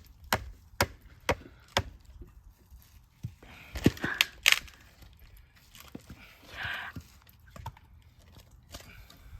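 A series of sharp knocks, about two a second at first, then a few louder cracks about four seconds in and some lighter taps later.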